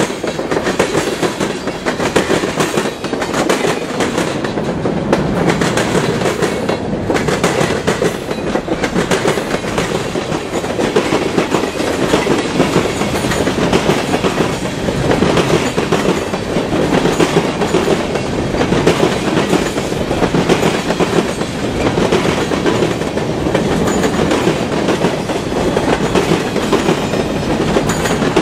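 Railroad cars rolling past close by: a steady rumble with the wheels clacking over the rail joints.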